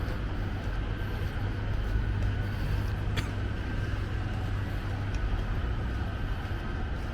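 City street traffic: a steady low rumble of road vehicles, with a brief sharp click about three seconds in.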